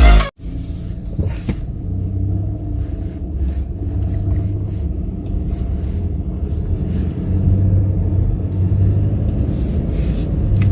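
Steady low rumble of a running motor vehicle, with a hum in it. A burst of electronic music cuts off just at the start.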